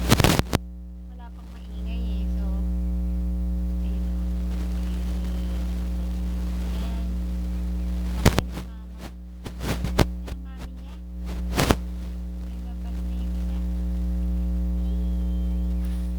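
Steady electrical hum, with a few sharp knocks near the start and again about eight, ten and twelve seconds in.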